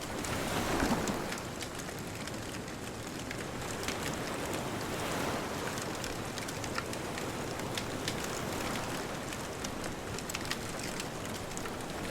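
Bonfire crackling with scattered sharp pops over a steady wash of ocean waves, which swells about a second in and again around five seconds in.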